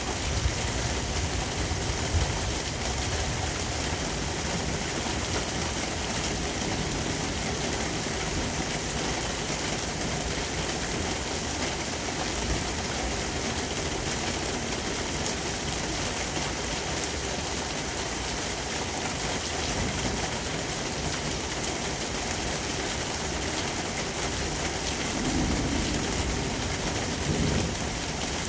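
Heavy thunderstorm rain pouring steadily, a dense even hiss, with a low rumble underneath.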